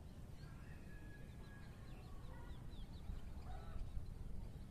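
Faint bird chirps, a series of short high notes and whistles, over a steady low outdoor rumble.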